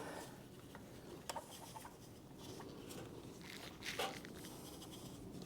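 Quiet handling noises from a spin-on oil filter being unscrewed by hand from a tractor diesel engine, with a few short sharp clicks spread through it.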